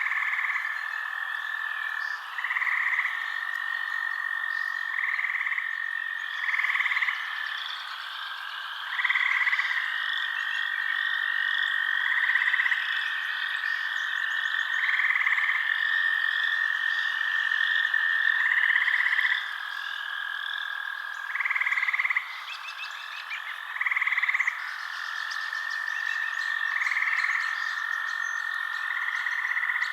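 Night chorus of frogs calling over a continuous high trill, with short louder calls repeating every two to three seconds and a dense chirring above.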